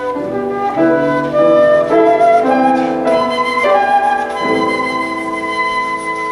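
Flute playing a melodic line over a lower sustained accompaniment, the notes changing every half-second or so.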